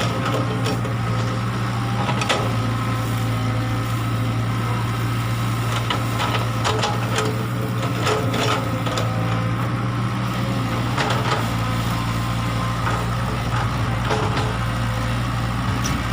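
Excavator engine running steadily at a constant speed, with scattered sharp knocks from the machine at work.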